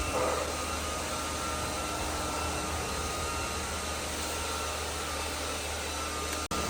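Steady drone of heavy machinery running, with a constant low hum under an even wash of noise.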